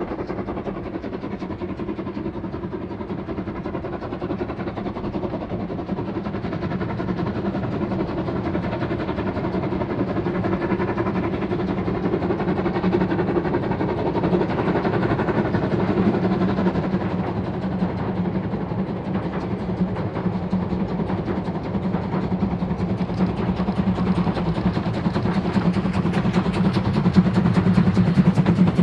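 Narrow-gauge steam train with locomotive 99 1741-0 running, the sound slowly growing louder as it draws nearer.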